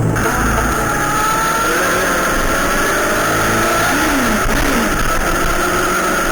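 Yamaha YZF-R6 inline-four engine running steadily under way, its pitch drifting slightly, with a brief dip and rise in pitch about four seconds in.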